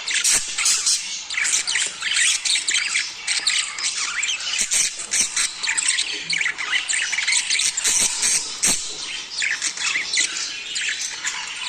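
A flock of budgerigars chattering, with many overlapping chirps and squawks packed densely together: the mating chatter of budgies.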